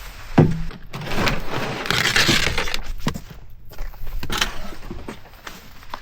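Firewood being handled while a campfire is built: a knock about half a second in, a stretch of rustling, then scattered sharp cracks like small sticks snapping.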